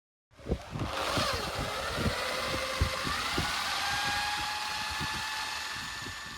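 Electric motor of a machine tool whining as it comes up to speed, its pitch dipping and then rising to a steady note, with irregular knocks and clatter underneath.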